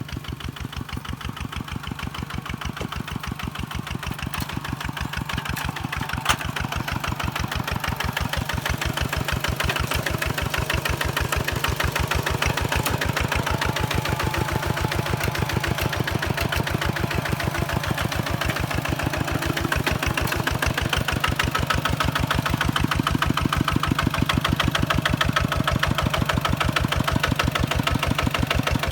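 Single-cylinder diesel engine of a Kubota walking tractor running with an even, rapid firing beat, growing gradually louder. A single sharp click comes about six seconds in.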